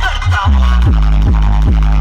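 Electronic dance music played loud through a DJ sound system under test, heavy on the bass. After a short break just at the start, a kick-drum beat comes back about half a second in, at roughly two and a half beats a second.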